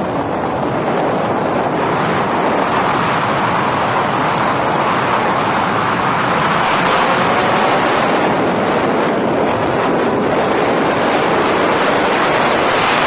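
Car driving at speed: loud, steady wind and road noise that builds gradually, with a faint engine note slowly rising underneath.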